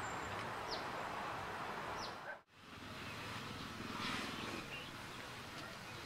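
Steady outdoor background noise with a few short, high bird calls, two of them about a second apart. The sound drops out for a moment partway through, then the background noise returns.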